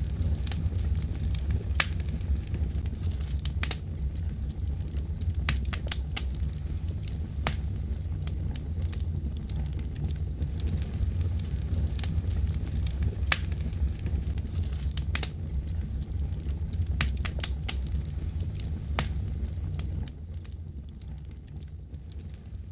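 Wood fire crackling: a steady low rumble with irregular sharp pops and snaps, fading down about twenty seconds in.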